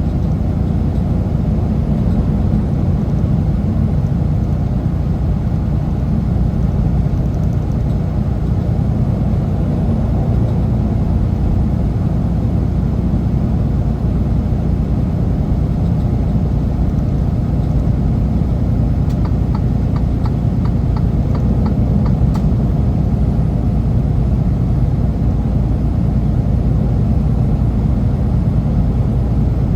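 Semi truck driving: a steady, loud low rumble of its diesel engine and road noise, with a short run of faint ticks about two-thirds of the way through.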